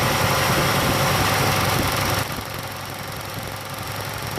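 A car engine running steadily. About two seconds in it drops to a lower level, and the hiss goes down with it.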